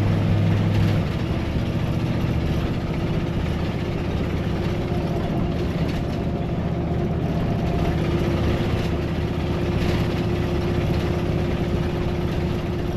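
Ford 460 big-block V8 in a 1996 Coachmen motorhome running under way, with steady engine and road noise. The exhaust manifold is leaking. The engine note drops about a second in.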